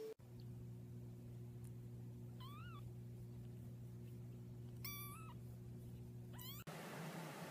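Domestic cat meowing faintly: two short meows a couple of seconds apart, then a brief rising call, over a steady low hum.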